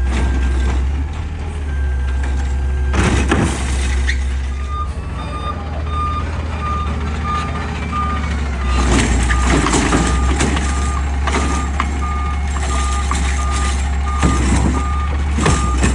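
Peterbilt 520 garbage truck running with a steady deep engine drone, its reversing beeper sounding about one and a half times a second from about five seconds in until near the end as it backs up. Loud short bursts of noise break in at about three seconds and around nine to ten seconds.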